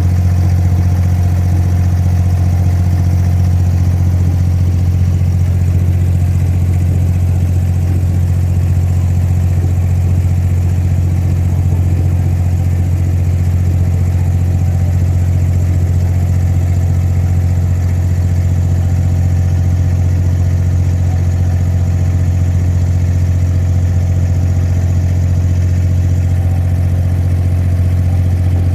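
An abra water taxi's inboard diesel engine running at a steady, unchanging speed while under way: a loud, constant low drone with a stack of even overtones.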